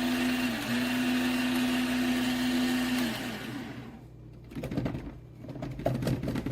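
Fellow Opus conical burr coffee grinder's motor running steadily, then spinning down and stopping about three seconds in, followed by light clattering and knocks. The grinder is running on its own while plugged in, which the owner takes for a fault.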